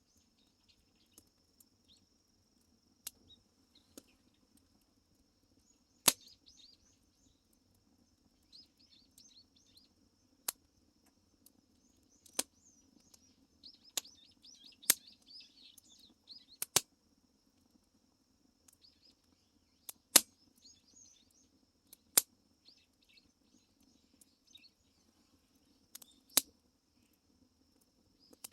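Firewood crackling and popping in a wood-fired furnace: sharp single pops every second or two, some loud, over faint high chirping.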